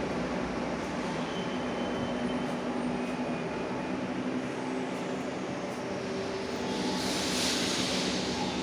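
Moscow Metro "Nomernoy" (81-717/714) metro train running between stations, a steady rumble with a low hum. A hiss swells about seven seconds in.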